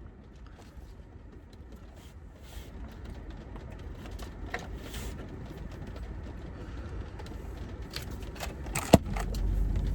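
Chunks of ice falling onto a car, heard from inside the cabin: scattered light ticks and taps, then one sharp, loud hit about nine seconds in, over a steady low rumble.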